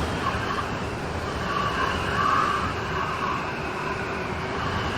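Steady rain storm noise, with a wavering higher sound swelling and fading several times over it.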